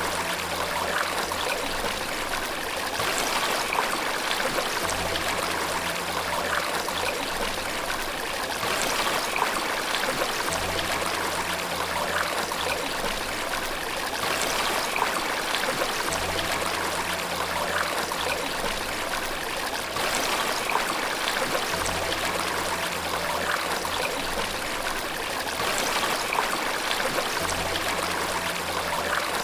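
Steady rush of flowing water, as from a waterfall or stream. Faint low notes of soft background music come in every five or six seconds.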